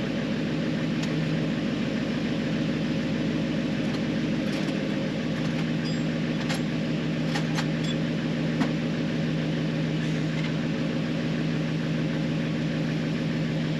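An engine running at a steady idle, with an even, unchanging hum.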